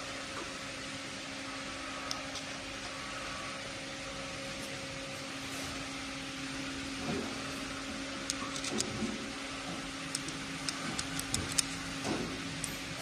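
A steady mechanical hum with a low tone, and a scattering of short light clicks in the second half.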